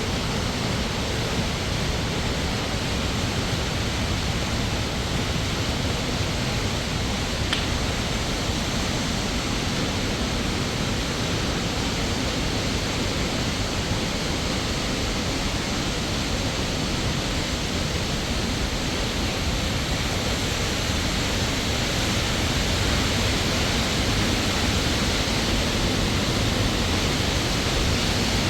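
Waterfall pouring with a steady, even rush of water, growing a little louder about two-thirds of the way through. A single faint click about seven seconds in.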